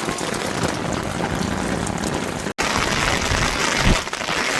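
Heavy rain falling, a steady dense hiss, with the sound dropping out for an instant about halfway through.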